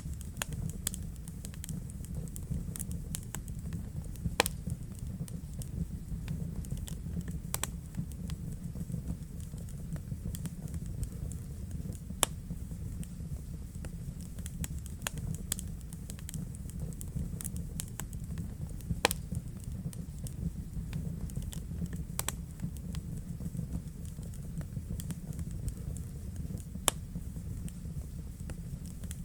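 Wood fire burning in a fireplace: a steady low rumble of the flames with irregular sharp crackles and pops, a few louder snaps standing out.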